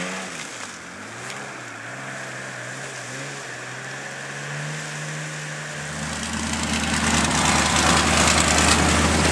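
Mud-bogging 4x4 truck's engine revving, its pitch rising and falling. About six seconds in it turns louder, with a deep steady drone and a growing rush of noise as the truck is driven hard into the mud.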